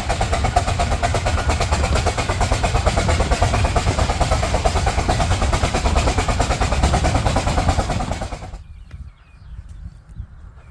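Miniature railway locomotive running close by with a fast, even beat. It cuts off suddenly about eight and a half seconds in, leaving a much quieter background with faint chirps.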